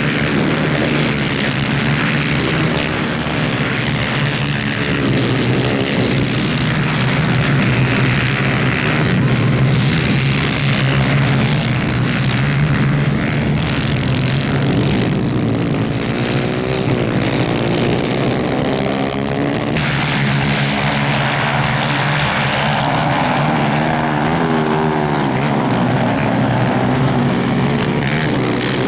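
Several 250cc two-stroke superkart engines racing, their pitch rising and falling over and over as they accelerate and lift off.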